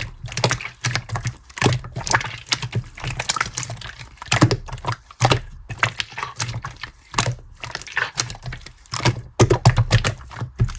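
Rapid, irregular clicks and taps, several a second, over a low steady hum.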